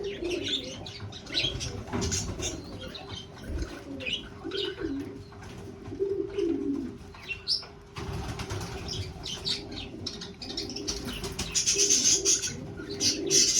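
Birds calling: low warbling coos mixed with short high chirps, the chirping growing louder near the end.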